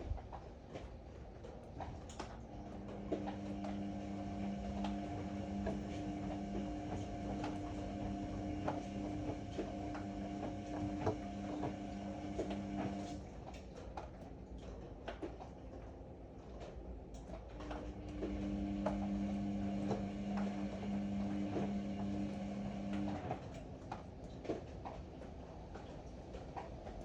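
Ariston AML125 washer-dryer's drum motor humming as it turns the drum for about ten seconds, stopping for a few seconds, then running again for several seconds, with light knocks of the load tumbling inside. This on-pause-on pattern is the drum tumbling during a wash cycle.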